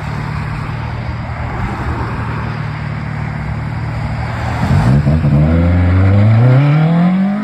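A car engine running steadily at low revs, then about four and a half seconds in it accelerates hard, its pitch climbing steadily and getting louder.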